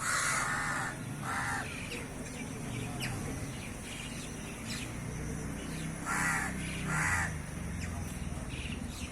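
A bird giving harsh calls, four in all: a pair near the start and another pair about six seconds in, with faint short chirps in between.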